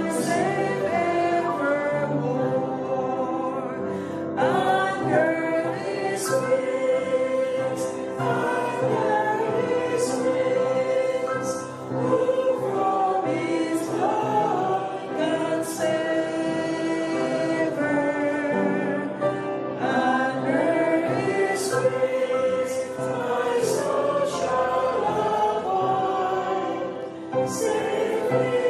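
Choir singing a hymn, several voices together on held, changing notes.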